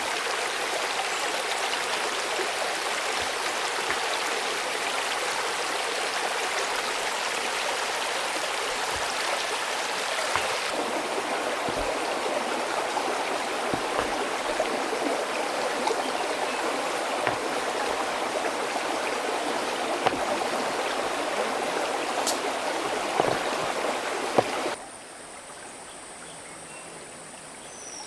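Stream water flowing steadily, a constant rushing with a few small clicks. Near the end it cuts off abruptly to a much quieter forest background with a thin, steady high-pitched tone.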